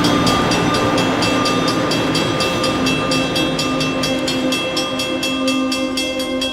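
A train moving on the rails, with steady tones held under a fast, even ticking.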